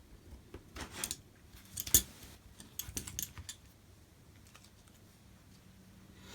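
A quick run of small clicks and taps from hard parts being handled, the sharpest about two seconds in.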